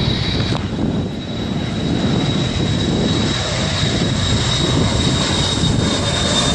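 Airplane flying overhead: a steady engine drone.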